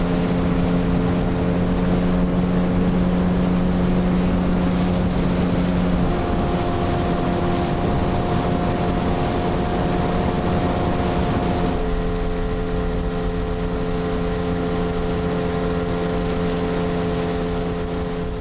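Outboard motor of a motorboat running steadily under way, its engine note shifting twice, about six and twelve seconds in.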